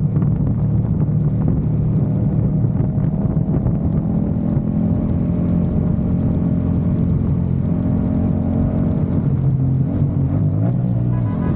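Yamaha MT-07's 689 cc parallel-twin engine running under way, with a steady note that dips about ten seconds in and climbs again near the end.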